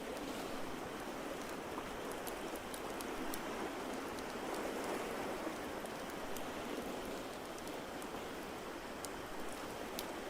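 Ocean waves washing in a steady hiss that swells louder about halfway through, with scattered sharp crackles and pops from a wood fire on top.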